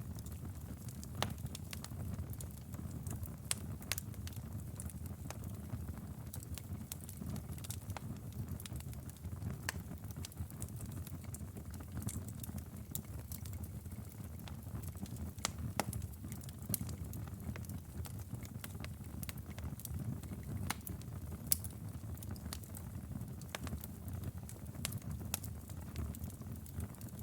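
Fire crackling: a steady low rumble of flame under scattered, irregular sharp pops and snaps, a few of them louder than the rest.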